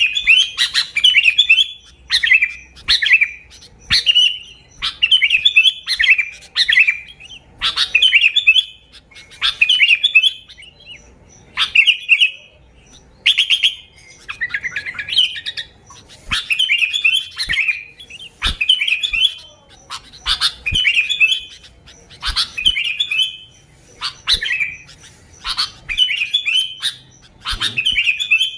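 Sooty-headed bulbul singing: short, bubbly warbled phrases repeated about once a second, loud and without a break.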